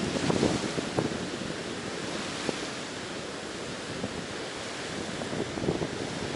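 Ocean surf washing onto a beach in a steady hiss, swelling with a crackly wash in the first second and again near the end.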